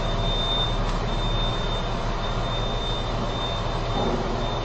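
Truck diesel engine running steadily, with a thin, steady high whine over the low hum.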